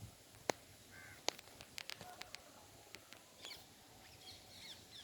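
Faint bird calls: a short call about a second in, then quick high chirps in the second half. A few sharp clicks come in the first half, the loudest of them about half a second in.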